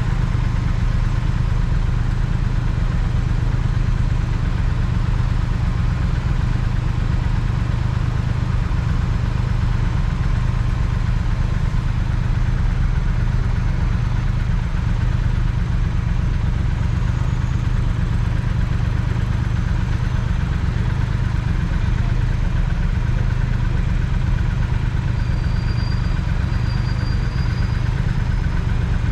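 Triumph Speed Twin's parallel-twin engine running steadily at an even, low pitch, with no revving.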